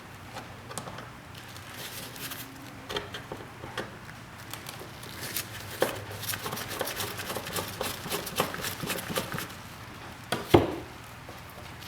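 Scattered clicks and light knocks of small hard parts being handled and set down on a bench, with one louder knock about ten and a half seconds in.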